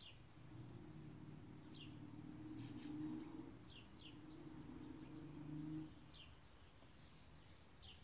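Faint, short bird chirps that fall in pitch, about one a second, over a low pouring sound of frothed milk running into a coffee cup that stops about six seconds in.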